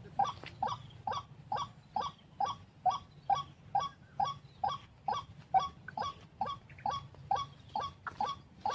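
White-breasted waterhen's call: one short 'wak' note repeated over and over in a steady rhythm, about two to three notes a second.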